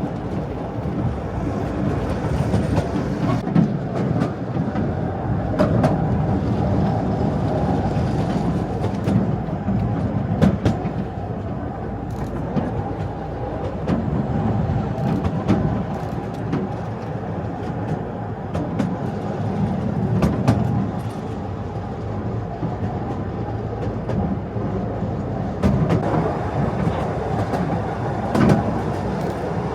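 Narrow-gauge train rolling steadily along the track: a continuous low rumble with scattered sharp clicks from the wheels on the rails.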